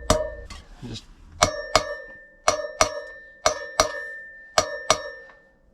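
Gentle hammer taps driving a new wheel bearing into a dirt bike wheel hub: about ten strikes, mostly in pairs about a second apart, each leaving a short metallic ring.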